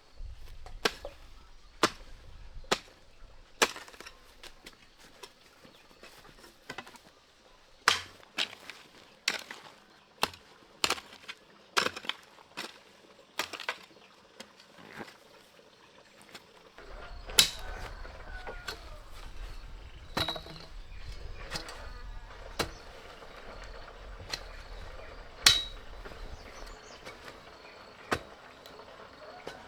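Irregular sharp knocks and clicks, some close together and some a second or more apart, as of hard objects being handled or struck. A faint low rumble runs under them for a while in the second half.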